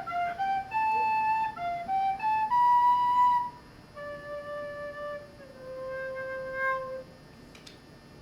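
A flute playing a short unaccompanied melody. A quick run of notes climbs to a long held note, then two long, lower and quieter notes follow.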